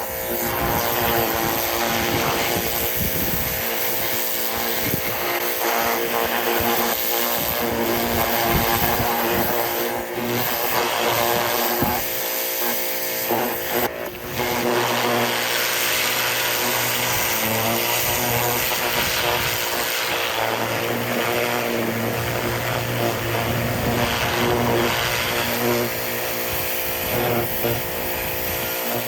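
Ryobi corded electric pressure washer running steadily, its motor and pump whining under a hissing jet of water sprayed onto metal engine parts. The sound dips briefly twice, around 10 and 14 seconds in.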